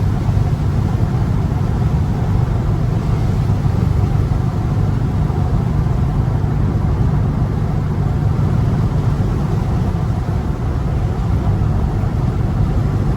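Dodge Scat Pack's 6.4-litre HEMI V8 cruising steadily: a constant low drone with road noise under it.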